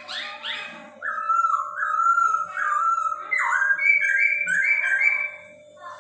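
Poksay Hongkong singing a rapid run of clear whistled phrases with slurred glides, stepping up in pitch about halfway through. A faint steady hum runs underneath.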